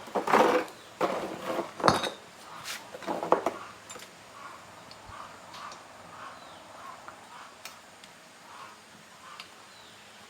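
Metal parts and tools clattering and clinking in several quick bursts over the first few seconds, then faint, short, repeated chirps from a small animal.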